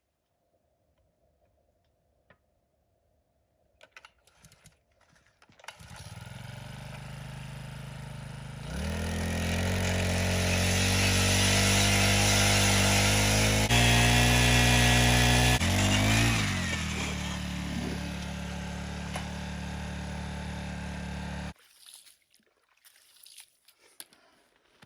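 Propane-powered ice auger's small engine starts and idles, then revs high for about seven seconds while boring through thick ice. It drops back to idle and cuts off suddenly.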